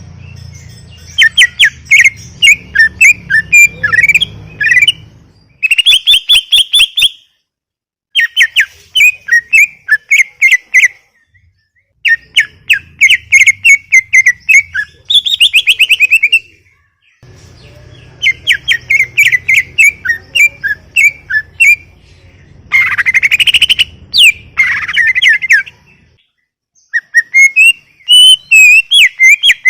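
Cucak ijo (green leafbird) in full song: loud bursts of fast, high chattering and whistled notes, about seven phrases separated by short pauses.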